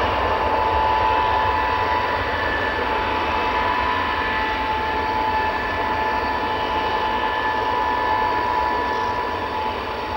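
Tupolev Tu-154M airliner taxiing, its three Soloviev D-30KU-154 turbofan engines at low power: a steady high whine over a broad rush of jet noise, slowly growing fainter.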